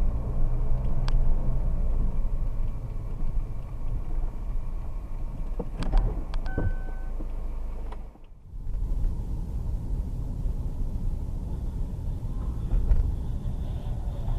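Car road and engine rumble picked up by a dashcam, with a few sharp clicks and a short beep about six seconds in. The sound cuts out for a moment about eight seconds in, then the rumble carries on.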